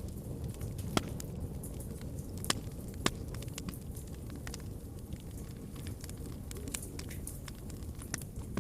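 Wood fire burning in a fireplace: a steady low rumble of the flames with scattered sharp crackles and pops, the loudest about a second in and around three seconds.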